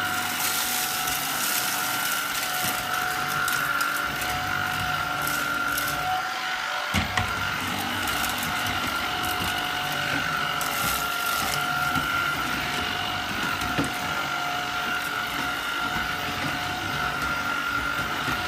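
Tineco A10 Hero cordless stick vacuum running steadily with a high motor whine, with a few short crackles as debris is sucked up off the floor.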